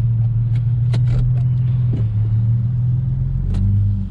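Infiniti G35's 3.5-litre VQ35DE V6 with an aftermarket Y-back exhaust running at a steady low drone, heard from inside the cabin as the car rolls slowly. A few light clicks sound over it, and the pitch dips slightly near the end.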